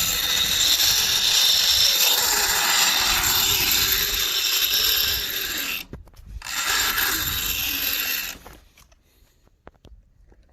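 Homemade PTO winch with its brake off, the drum turning freely as the cable is pulled out, giving a loud, ratcheting mechanical clatter. It breaks off briefly about six seconds in, runs again for a couple of seconds, then stops.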